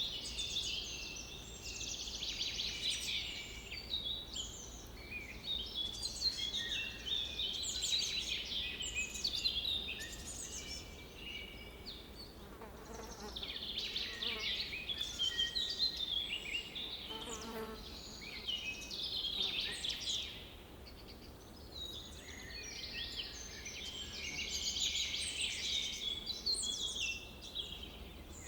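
Lakeside wildlife ambience: dense, overlapping high-pitched chirping that swells and fades in waves every few seconds.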